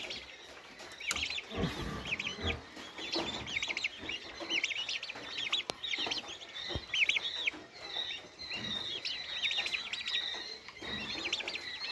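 A group of turkey chicks (poults) peeping continuously, many short high overlapping calls.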